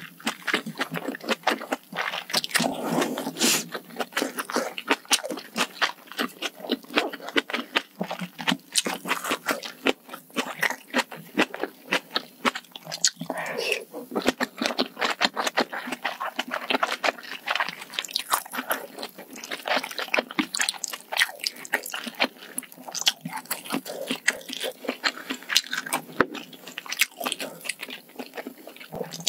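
Close-miked chewing of a mouthful of malatang (spicy hot pot): a continuous run of small, moist crunches and clicks from the mouth.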